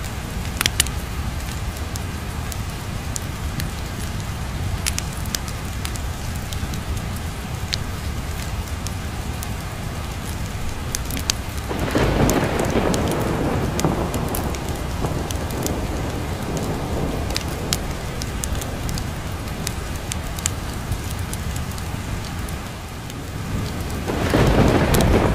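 Steady rain with thunder rolling in twice, about twelve seconds in and again near the end, over scattered sharp crackles from a log fire.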